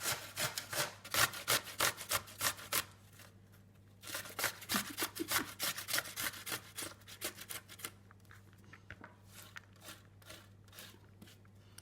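A cucumber being grated on a hand grater: quick repeated rasping strokes, about four a second. They pause briefly about three seconds in, then resume and grow fainter over the last few seconds.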